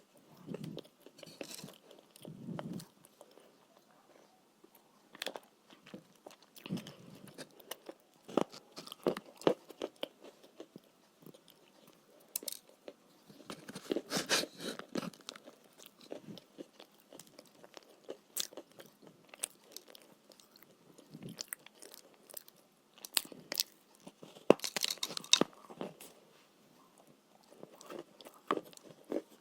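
A person biting and chewing chalk with paste: irregular crisp crunches and crackles, with louder bursts of crunching about 14 seconds and 25 seconds in.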